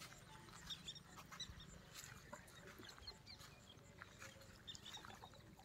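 Near silence, with faint, scattered short high chirps of small birds.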